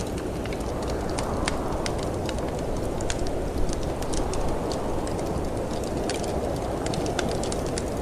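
Snowstorm wind blowing with a steady, deep rush, over the irregular crackles and pops of a wood fire burning in a fireplace.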